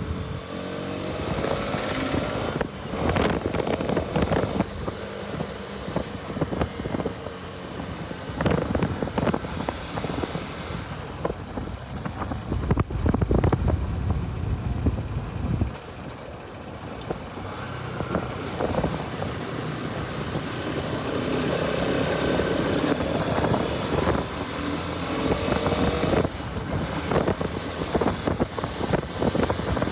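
Bajaj Pulsar RS200's single-cylinder engine while riding, its pitch rising as it accelerates near the start and again in the later part, with gusts of wind noise on the microphone.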